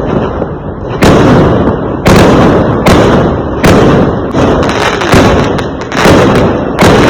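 Fireworks exploding, about seven loud bangs, roughly one a second, each trailing off in a long rumbling echo.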